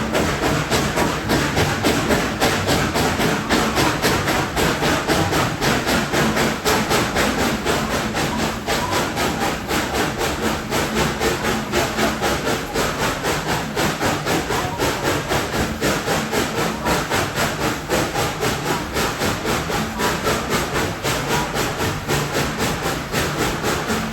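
Narrow-gauge steam locomotive #190 working steadily under load, its exhaust chuffing in an even rhythm of about two to three beats a second over a continuous steam hiss.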